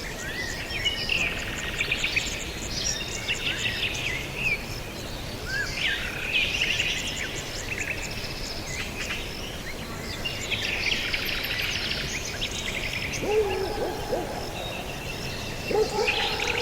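Several songbirds singing in bursts of rapid chirps and trills, over a steady background hiss. A lower-pitched bird call comes in twice near the end.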